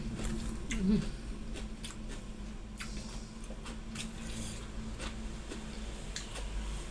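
A person eating gado-gado: chewing and small mouth and utensil clicks scattered throughout, over a steady low hum.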